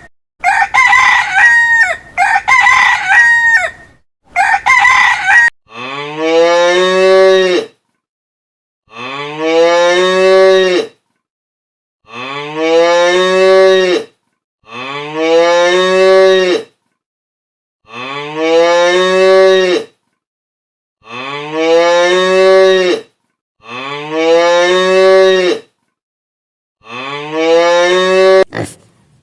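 A rooster crowing a few times, then a cow mooing: eight long moos of about two seconds each, evenly spaced and alike, as a repeated recording.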